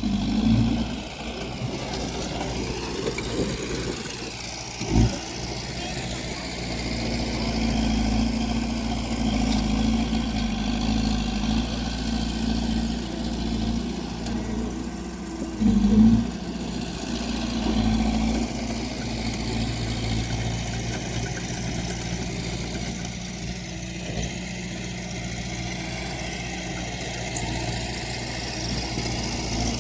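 Diesel engine of earthmoving machinery running steadily, with a sharp knock about five seconds in and a brief louder surge around sixteen seconds.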